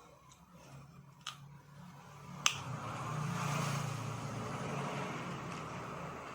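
A light click, then a sharp louder click about two and a half seconds in, followed by a low engine hum that rises and runs steadily.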